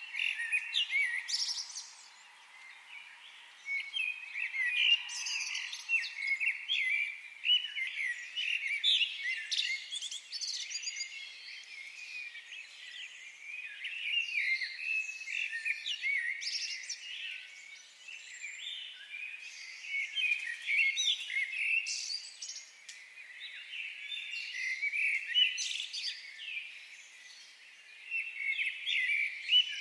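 Several songbirds chirping and singing at once in a dense chorus of short, high notes, with brief lulls a couple of seconds in and near the end.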